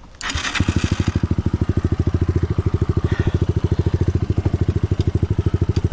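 Dirt bike's single-cylinder engine running at a low, steady idle, with an even, rapid putter. A short rush of noise comes right at the start.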